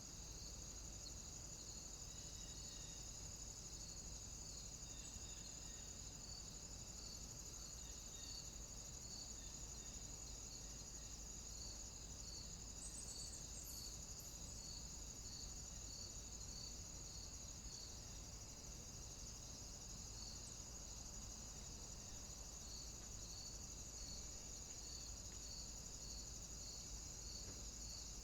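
Cicadas droning in a steady high continuous buzz, with a second insect chirping about once a second at a lower pitch, over a faint low rumble.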